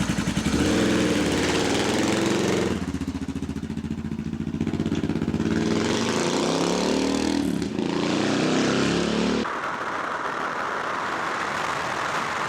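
Suzuki DR650's single-cylinder four-stroke engine running and revving as the bike moves off, its pitch rising and falling with the throttle. About nine and a half seconds in, the engine note gives way suddenly to a steady rush of wind noise on the microphone at road speed.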